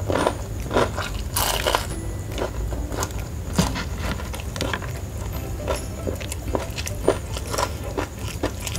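Close-up chewing of crispy fried chicken coating: two loud crunches in the first two seconds, then smaller crunches and mouth sounds at an uneven pace.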